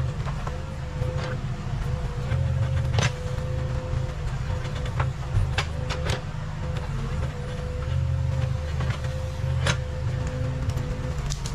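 Case 580 Super K backhoe loader's diesel engine running steadily, with a constant whine over the rumble and a few sharp clanks.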